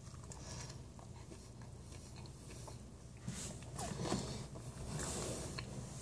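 A person chewing a mouthful of toasted waffle, egg and bacon sandwich close to the microphone. It is faint at first and gets louder and wetter about halfway through, with small crunchy clicks.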